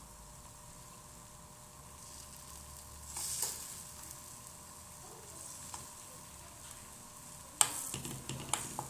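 Crepe batter frying in a pan with a faint steady sizzle. A brief scraping burst comes about three seconds in, and near the end a sharp clack, the loudest sound, is followed by a few lighter knocks.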